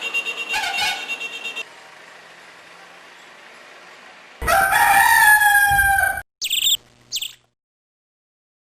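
A rooster crowing once, starting about four seconds in: one long call that falls slightly in pitch, followed by two short high calls. Before it, a pulsing chirping sound lasts about a second and a half.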